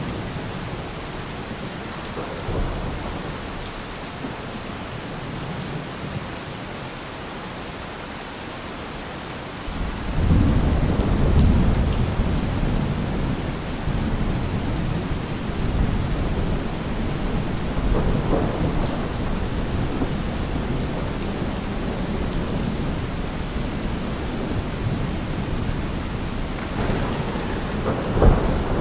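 Steady heavy rain with rolling thunder. A loud, low rumble breaks in about a third of the way through and rolls on, swells again around the middle, and a sharp thunderclap cracks near the end.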